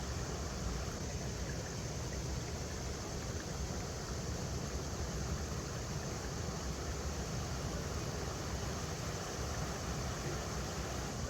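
River water rushing steadily over rocks: an even, continuous rushing with a deep rumble underneath.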